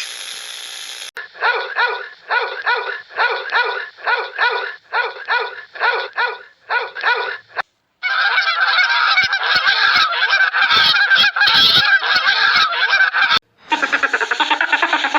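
Geese honking: a run of about a dozen short honks, roughly two a second, then from about the middle a dense din of many overlapping calls, as from a flock. Near the end it cuts to a different rapid pulsing animal sound.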